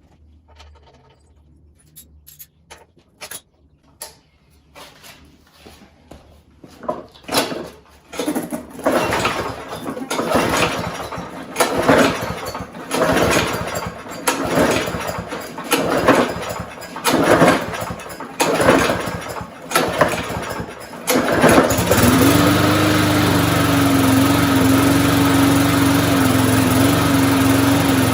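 Small engine of an MTD walk-behind lawnmower cranked over in about a dozen short bursts, roughly a second apart, after a few faint clicks. It catches about 21 seconds in and then runs steadily.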